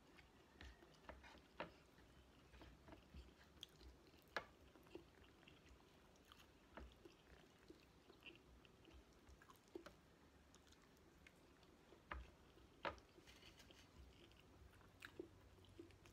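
A person chewing a mouthful of rice and chicken adobo, eaten with the fingers: faint, soft chewing with many small scattered clicks, a couple of sharper ones about four and thirteen seconds in.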